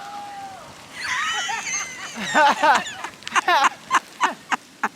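High-pitched voices squealing and calling out: a wavering squeal about a second in, then a quick run of short, loud cries.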